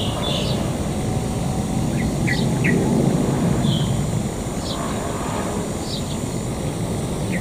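Steady low rumble of a passenger train moving away down the track, with short bird chirps popping up several times over it.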